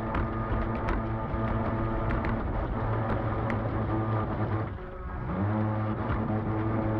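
Vintage RC boat's brushed electric motor running with a steady whine over water noise, with scattered sharp ticks. It eases off briefly about five seconds in, then picks up again.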